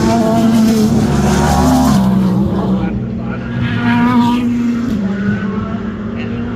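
Race car engines running hard on the track, a loud steady engine note that shifts in pitch a few times as cars go by, with a voice faintly under it.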